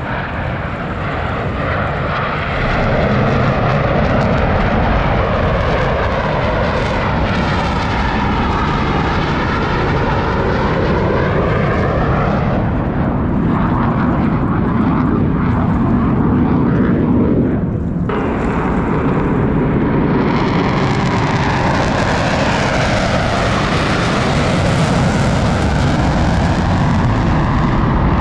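Blue Angels F/A-18 Super Hornet jets flying past: loud, continuous jet noise with a sweeping, shifting tone as each jet passes. The sound changes abruptly about two-thirds of the way in, and a second pass builds in strength near the end.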